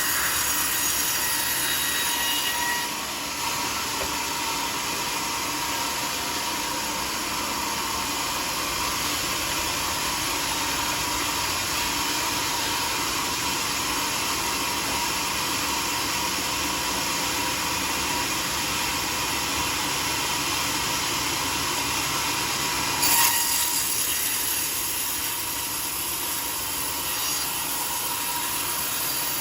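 Sawmill saw running steadily through a teak log, with a steady whine and one brief louder moment about three-quarters of the way through.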